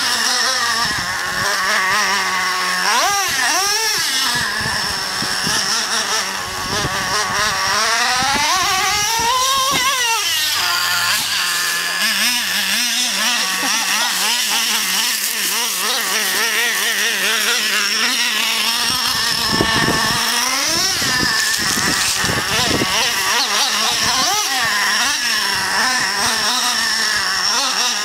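Small nitro engine of a radio-controlled truck running, its high buzzing pitch rising and falling again and again as the throttle is opened and closed.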